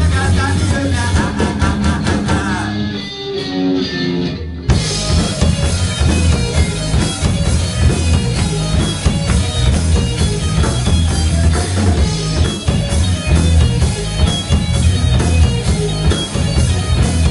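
A rock band plays live with drum kit, electric guitars and bass. About three seconds in, the band drops to a sparse break with a falling run of notes. Almost two seconds later the full band crashes back in.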